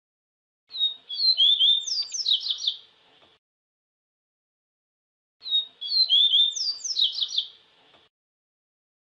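Papa-capim seedeater (Sporophila) singing two phrases, each about two and a half seconds long, one near the start and one just past the middle: a run of high chirps and quick sweeping notes that grows louder and faster toward the end of each phrase.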